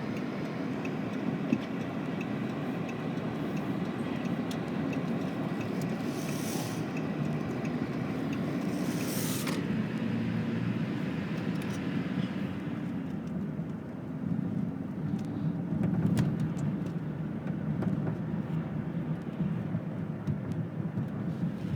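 Road noise inside a moving car on wet pavement: a steady low rumble of engine and tyres, with a higher tyre hiss. Two brief hissing swells come about six and nine seconds in, and the high hiss dies down about thirteen seconds in.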